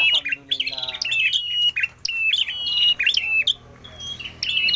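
Prenjak merah songbird calling hard and often: clusters of sharp, high chipping notes repeated with short gaps.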